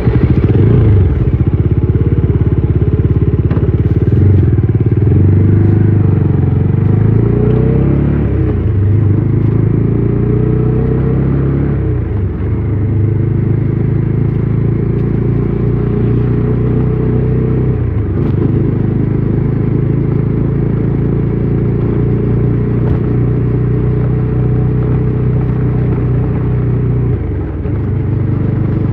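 Bajaj Dominar 400's single-cylinder engine and exhaust heard from on the moving bike, its revs rising and falling several times as it pulls away and rides on.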